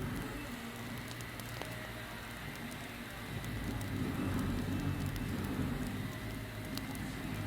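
Campfire burning: scattered small crackles and pops over a steady low rumble, which grows louder about halfway through.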